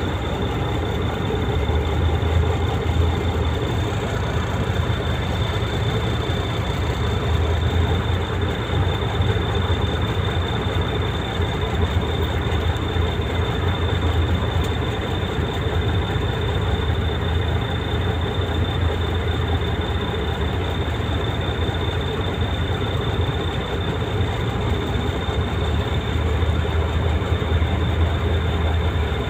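Truck engine running steadily with a deep low rumble and a thin steady high whine over it.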